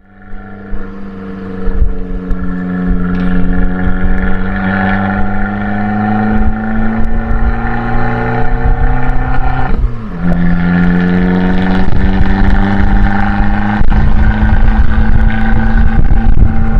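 Abarth 595C's turbocharged 1.4-litre four-cylinder engine through an Akrapovic exhaust, pulling under steady acceleration with its pitch slowly rising. About ten seconds in there is a brief break and the pitch drops, a gear change, before it climbs again.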